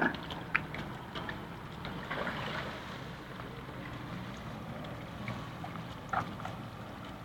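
Boat engine idling with a steady low hum at the ramp, with a few short knocks and clicks over it.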